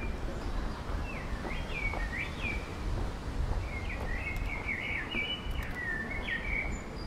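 A songbird singing two phrases of quick up-and-down notes, a short one about a second in and a longer one from about four seconds, over a steady low rumble of outdoor background noise.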